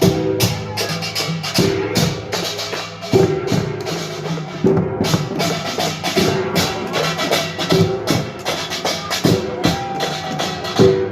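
Korean pungmul percussion ensemble playing a fast, dense rhythm, metal gongs and drums struck together with ringing held tones under the beat.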